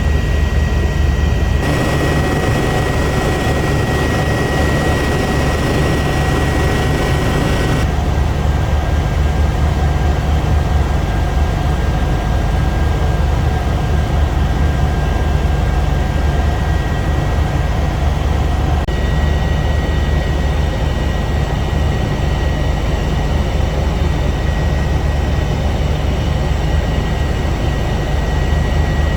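Eurocopter EC145 twin-turbine helicopter in flight: a steady, loud rumble of the rotor and engines with a thin, steady high whine. The mix shifts slightly a few times.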